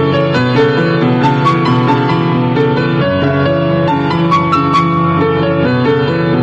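Piano music, with a melody of sustained notes over changing chords and many new notes struck throughout.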